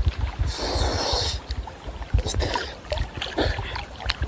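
Seawater sloshing and splashing close to the microphone as swimmers move in choppy waves, with gusty low rumbling buffets and a hissy splash about a second in.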